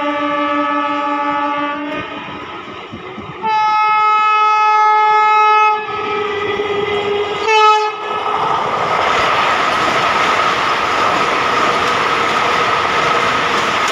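Vande Bharat Express trainset sounding its horn as it approaches at speed: a blast that ends about two seconds in, a louder, longer one, then a short toot. This is followed by the steady noise of the train running past close by, with wheels clattering over the rail joints.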